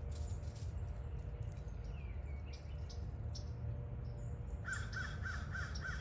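A bird gives a quick run of about six repeated calls in the last second and a half, over a steady low rumble, with faint short chirps earlier.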